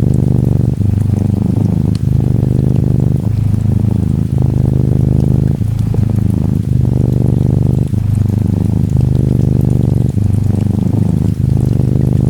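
Norwegian Forest Cat kitten purring steadily and loudly, the purr breaking briefly about every second as it switches between breathing in and out, over a faint patter of gentle rain.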